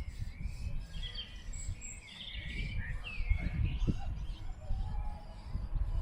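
Small birds chirping in short quick sweeping calls, over a steady low rumble.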